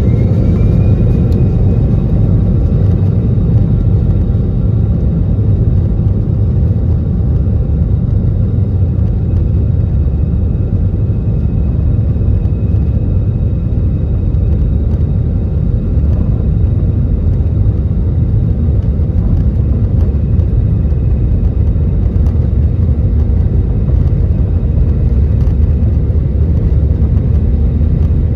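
Airbus A320 jet engines and airflow during takeoff: a loud, steady low rumble with faint whining tones above it, one of them rising in pitch in the first second.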